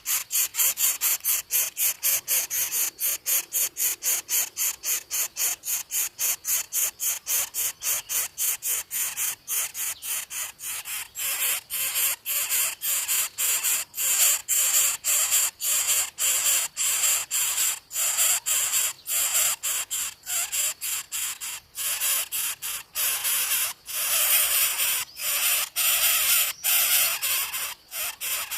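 Coucal nestlings begging: rapid, raspy, hissing calls repeated about three to four times a second without pause.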